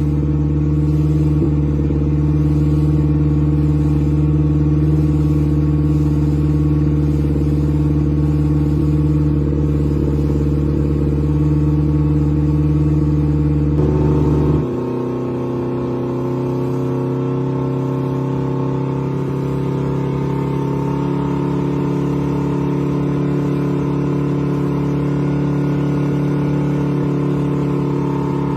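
Boat engine running steadily. About halfway through its sound shifts abruptly: the deep low rumble drops away and the pitch changes, then it runs steadily again.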